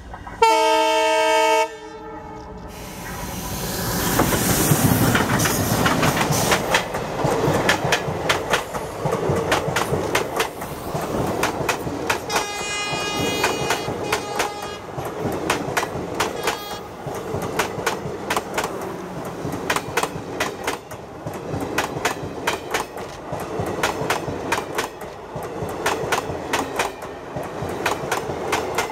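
Indian Railways Udaipur City–Jaipur Intercity Express passenger train. It opens with a loud horn blast, then the train closes in and passes close by at speed, its wheels clicking over the rail joints as the coaches go past. A fainter, higher-pitched tone sounds about halfway through.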